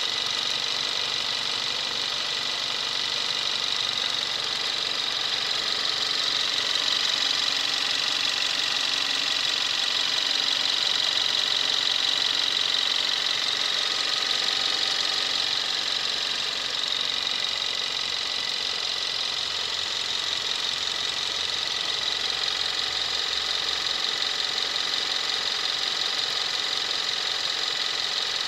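2017 Kia Rio's 1.6-litre inline four-cylinder GDI engine idling steadily, heard from above with the hood open. A fast, high-pitched ticking from the direct-injection fuel system stands out over the engine's faint low hum. This is the normal running sound of a healthy, low-mileage engine shortly after start-up.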